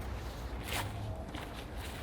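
Footsteps walking on a forest path, a few separate steps.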